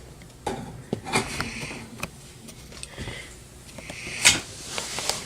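Light clicks and taps of hands handling the plastic humidifier and its steam control, with two short soft rushes of noise, about a second in and about four seconds in.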